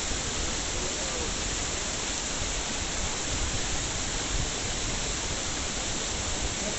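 Steady, even rushing noise like running water, with no distinct events.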